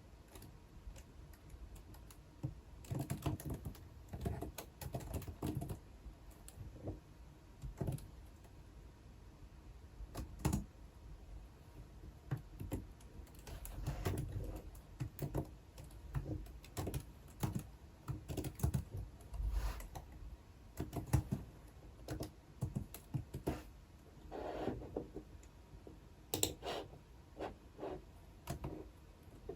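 Typing on a computer keyboard in irregular bursts of keystrokes with short pauses between them.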